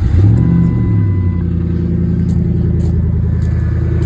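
2003 Ford F-150 engine catching on start-up, flaring briefly in the first second and then settling into a steady idle. The idle-air line is fitted with an IAC muffler, which the owner says cures the humming and whine that a cold air intake otherwise gives.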